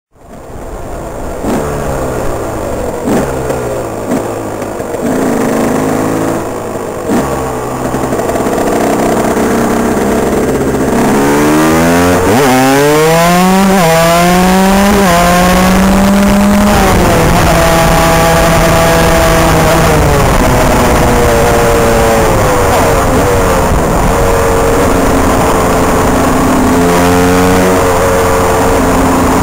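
KTM 125 EXC supermoto's two-stroke single-cylinder engine with an Akrapovic exhaust, ridden hard. At first it revs up and down in short blips; from about twelve seconds in it accelerates hard, its pitch climbing steeply and stepping back down at each upshift.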